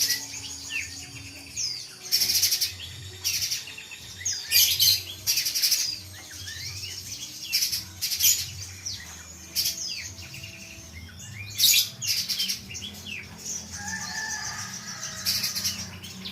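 Spiderhunters calling: loud, sharp chip notes every second or two, among quick chirps that slide up and down in pitch.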